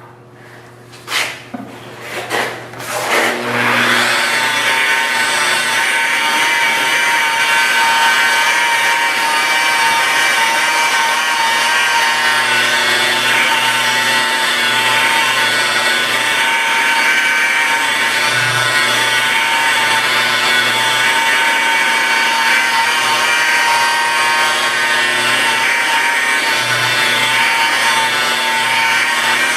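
Rotary car polisher started in a few short bursts, then running steadily with a pitched motor whine as its foam pad works rubbing compound over the paint.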